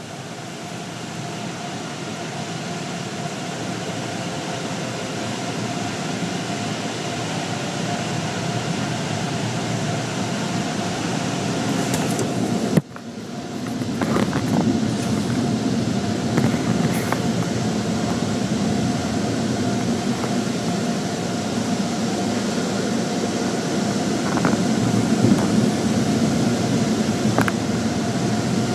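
Automatic car wash machinery running, a steady noise like rushing air and spray. It builds gradually, cuts out sharply about halfway through, then returns louder and deeper.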